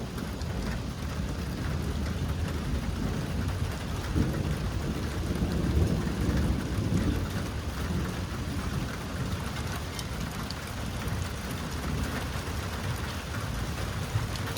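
Steady rain falling hard, with a low rumble of thunder swelling in the middle and fading again.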